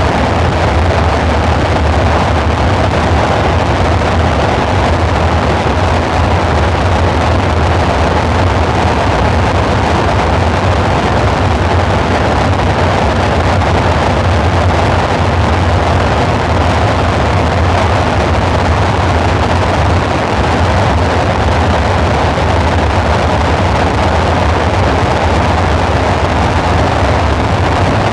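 Dark ambient synthesizer drone: a dense, steady wash of noise over a deep low hum, with no change in pitch or level.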